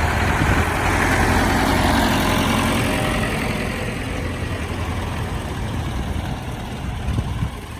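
Farm tractor engine running steadily at low revs, slowly fading.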